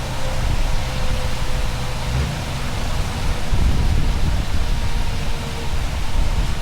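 Scania V8 truck engine with an open exhaust pipe running steadily at highway speed, a low rumble that swells about two and four seconds in. Heavy wind and road noise lie over it, with a faint steady whine.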